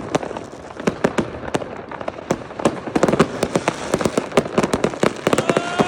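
Consumer fireworks and firecrackers going off all around in a rapid, irregular string of sharp bangs and crackles. Near the end a whistling firework starts up with a steady shrill whistle.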